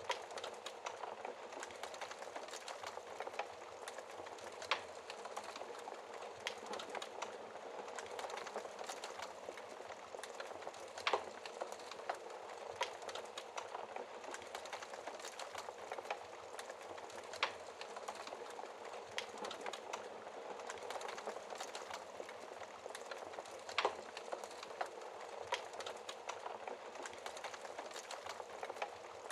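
Wood fire crackling in a fireplace: a steady hiss of burning wood with frequent small crackles and a few sharper pops at irregular intervals.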